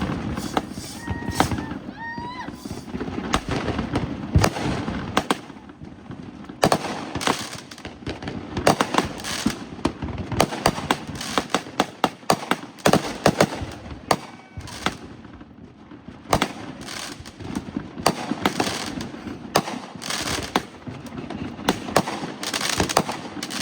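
Fireworks going off one after another: a dense, continuous stream of sharp pops and crackles, with louder bangs scattered all through it.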